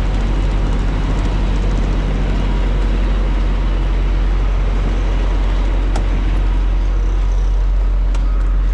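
Semi truck running down the highway, heard inside the cab: a steady low engine drone under road noise, with a faint click about six seconds in.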